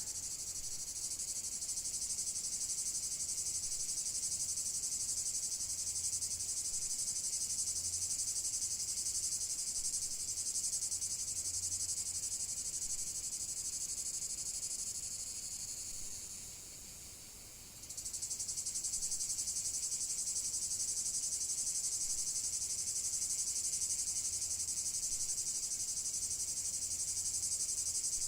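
A steady, high-pitched insect chorus, of the chirring kind made by crickets or cicadas. It fades and thins about sixteen seconds in, then comes back at full strength suddenly about two seconds later.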